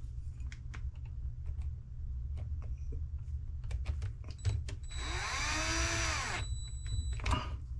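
Small cordless electric screwdriver running briefly for about a second and a half, about five seconds in, its whine rising and then falling as it drives a screw. Light clicks of small parts and screws being handled come before and after.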